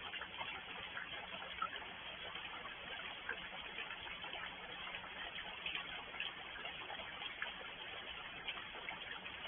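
Rain falling steadily, with many separate drop impacts clicking at irregular moments over the even hiss.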